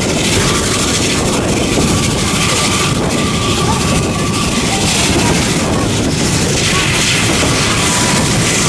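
Steady running noise of a narrow-gauge railway train moving along the line, an even, loud rumble with no clear rhythm.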